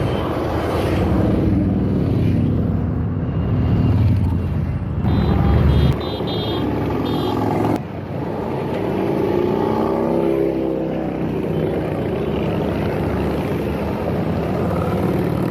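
Many motorcycles riding past, their engines running and revving with rising and falling pitch. The sound changes abruptly twice.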